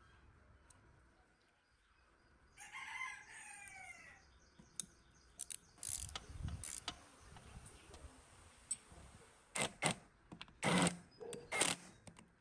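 A rooster crows once in the background about two seconds in. After that, a run of separate sharp metallic clinks and knocks follows, as metal machine parts are handled and fitted, and these grow more frequent near the end.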